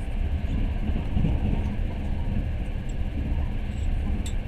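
Steady low rumble of a moving passenger train, heard from inside the carriage, with one short click near the end.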